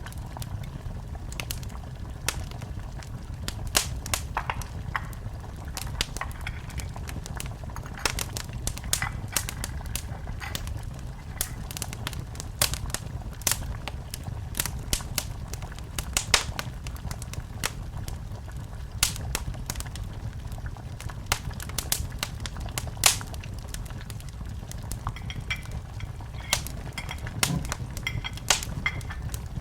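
Wood fire burning in a fireplace: a steady low rumble with irregular sharp crackles and pops, and a faint hiss in the last few seconds.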